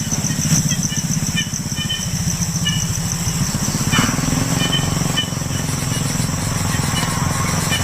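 A steady low motor drone with a fast pulsing beat, under an insect's continuous high pulsing trill and short repeated high chirps.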